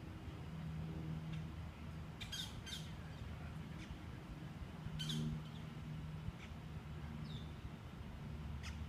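Outdoor birds giving a few short, sharp squawks and chirps, with a brief falling whistle call later on, over a low hum that comes and goes.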